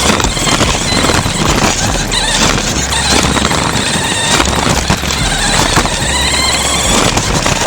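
Remote-control Grave Digger monster truck running down the course: steady, loud rushing and rattling noise with a few brief squealing whines.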